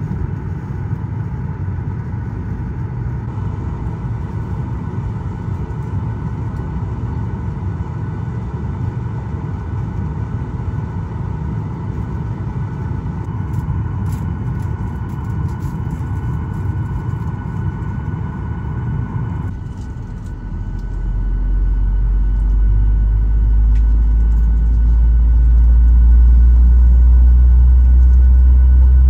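Cabin noise inside a Boeing 737-900ER: a steady hum with a few fixed tones. About two-thirds through, a deep rumble builds and grows loud, with a slowly rising whine, as the CFM56-7B engines spool up for the takeoff roll.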